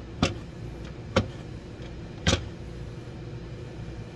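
Knife chopping cooked chicken on a cutting board: three sharp knocks about a second apart, over the steady hum of a running microwave.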